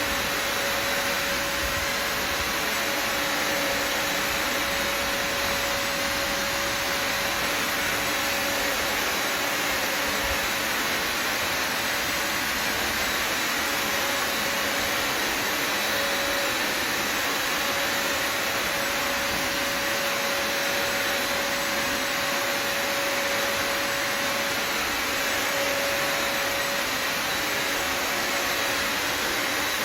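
Bissell Symphony Pet vacuum and steam mop running steadily: an even motor hiss with a thin steady whine.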